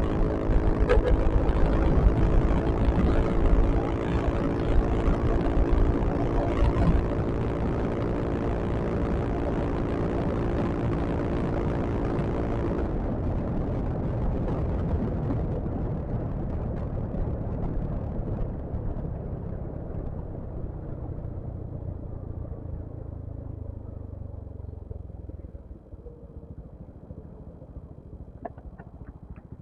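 Yamaha XMAX scooter ride as heard from the rider: the engine runs steadily under a haze of wind and road noise. About halfway through the steady engine tones cut off suddenly, and the remaining rumble fades away toward the end.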